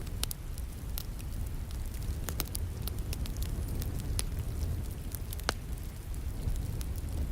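Wood fire crackling and popping in a fireplace, irregular sharp snaps over a steady low rumble and hiss that likely includes falling rain.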